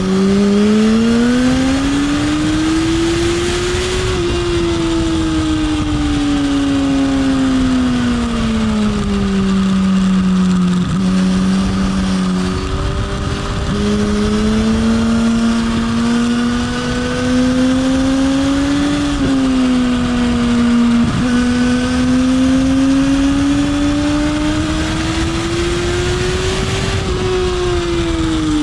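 Motorcycle engine heard onboard at speed, under heavy wind rush: the engine note climbs for the first few seconds, falls away, holds steady, cuts out for about a second near the middle, then climbs slowly with one shift partway and falls again near the end.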